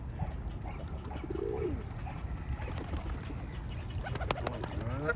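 A pigeon cooing once, about a second and a half in, over a steady low background rumble, with a few sharp clicks and another bird call near the end.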